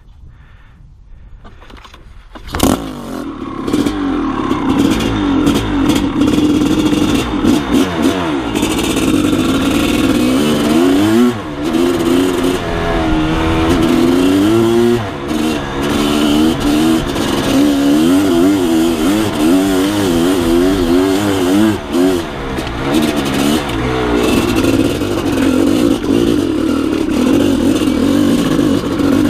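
Maico 660 two-stroke single-cylinder dirt bike engine under way, its pitch rising and falling with the throttle. It comes in loudly about two and a half seconds in, after a few faint clicks.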